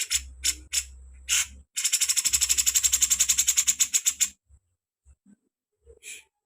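Songbird singing: a few sharp high chips, then a fast even trill of about eleven notes a second lasting some two and a half seconds, then a single short note near the end.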